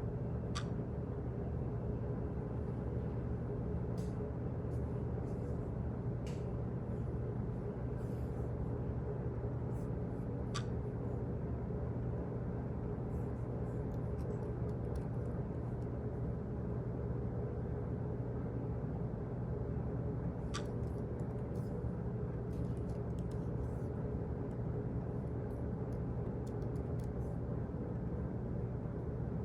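Steady low office background hum with a sharp tick repeating every ten seconds, three times, and fainter scattered clicks between them.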